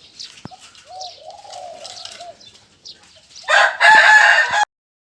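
Spotted dove cooing: a run of low coos linked in one phrase. About three and a half seconds in, a much louder harsh call comes in for about a second and cuts off abruptly.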